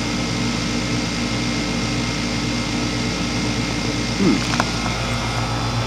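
A 2004 Goodman 3.5-ton heat pump outdoor unit running steadily: the hum of its Copeland reciprocating compressor and the whoosh of its condenser fan. The unit is in heating mode with its outdoor coil frosted over. There is a brief click about four and a half seconds in.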